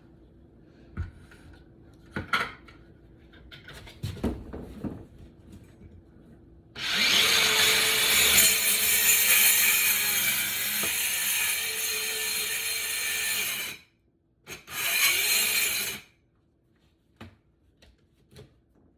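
Cordless DeWalt power saw cutting into wood flooring for about seven seconds, then stopping abruptly, with two short restarts, the second about a second long: the saw cutting out as its battery runs flat. A few light handling knocks come before the cut.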